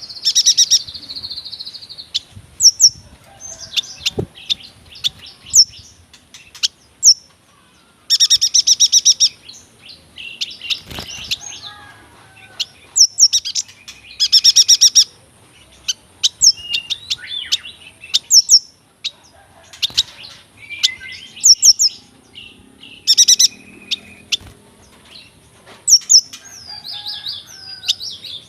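Yuhina singing a long, varied song of sharp, quick downward-sweeping chirps. The chirps are broken by fast rolling trills about a second long, three of them loud.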